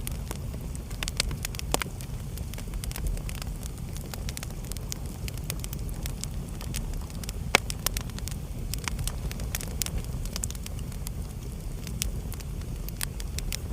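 Wood fire burning in a fireplace: a steady low rumble of the flames with irregular sharp crackles and pops, one louder pop about halfway through.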